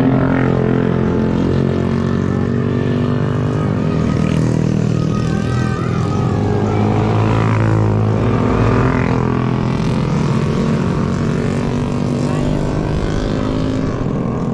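Motorcycle engine running at a steady cruising speed on the road, its pitch holding nearly constant, with wind and road noise.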